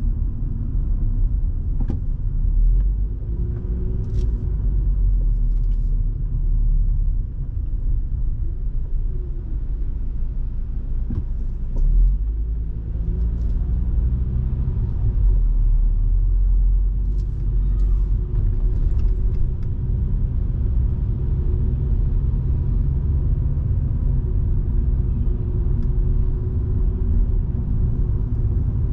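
Volvo V70 2.5T's turbocharged five-cylinder engine and road noise heard from inside the car on the move: a steady low rumble, with the engine note gliding up and down in pitch around the middle as the speed changes.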